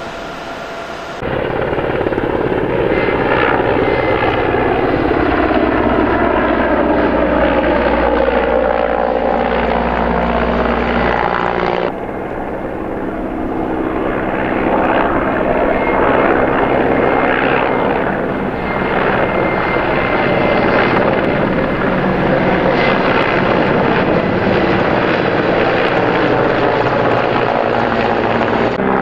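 Firefighting helicopter flying over, its rotor and engine running loud, the pitch of the rotor sound sliding down as it passes. The sound jumps abruptly about a second in and again about twelve seconds in.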